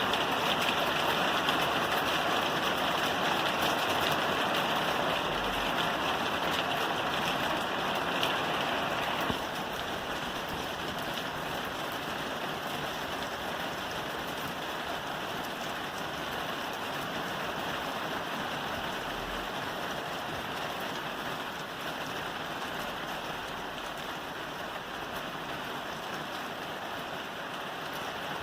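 Rain falling on a roof, a steady dense hiss of drops. About nine seconds in it suddenly gets a little quieter and lighter, then keeps on evenly.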